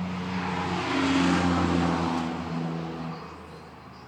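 A motor vehicle passing by: its engine hum and road noise swell to a peak between about one and two seconds in, then fade away.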